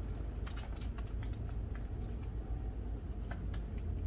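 Hands rubbing wet mud-pack cleanser over the face as it lathers into foam, a scatter of faint soft clicks over a steady low room hum.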